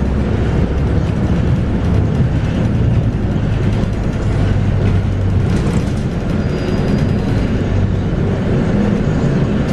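Scania DC9 five-cylinder diesel of a Scania K230UB bus with a ZF Ecomat automatic gearbox, running steadily under way, heard from inside the bus.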